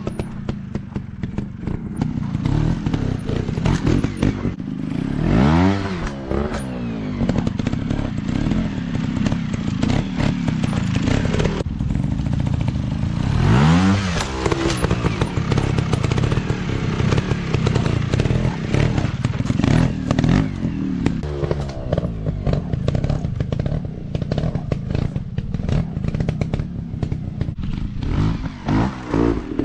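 Off-road dirt bike engine running and revving hard in several rising bursts, about five seconds in, again around thirteen seconds and near the end, with lower running in between. A scatter of clattering knocks accompanies it.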